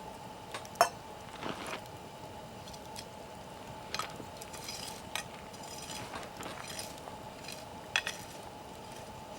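Wood campfire crackling, with scattered sharp pops; the loudest come about a second in and near the end.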